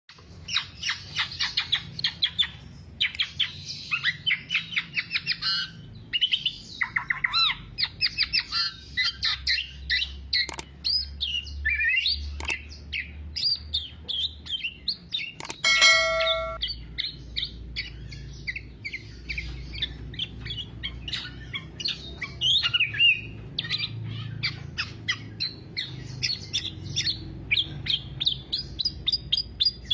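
Black-naped oriole (kepodang) singing nonstop: rapid chattering trills and whistled notes follow one another with hardly a pause. A short steady tone sounds about halfway through.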